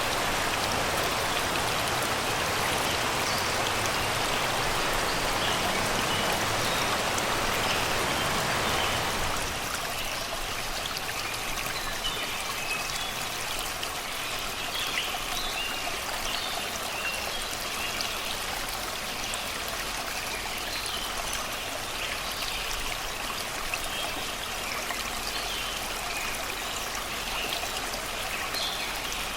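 Shallow river water rushing and babbling over rocks, a steady wash that drops to a quieter babble about nine seconds in. Birds chirp in short calls over the water.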